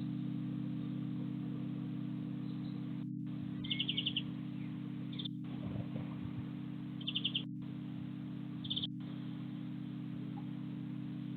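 A small garden bird calling: two quick high trills of about five notes each, a few seconds apart, with shorter single calls between them, over a steady low hum.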